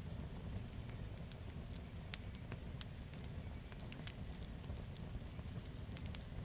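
Campfire burning: irregular sharp crackles and pops of burning wood over a low, steady rumble.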